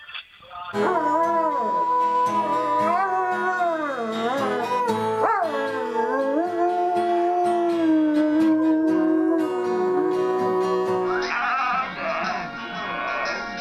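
A dog howling along to music, in long drawn-out howls that rise and fall in pitch and hold steady notes. The howling stops near the end, where a different recording begins.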